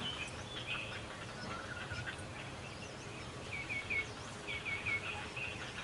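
A flock of birds calling, with short chirping notes and two quick runs of three notes about halfway through, over a steady background hiss.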